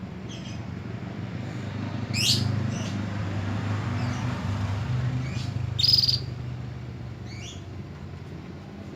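Domestic canary giving short, scattered chirps, about six in all, the loudest about six seconds in, over a steady low hum.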